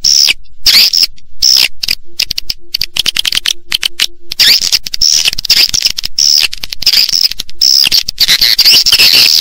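Edible-nest swiftlets twittering: a dense, rapid chatter of high chirps, broken by short gaps in the middle and thicker toward the end. It is a swiftlet lure call played to draw the birds into a nesting house.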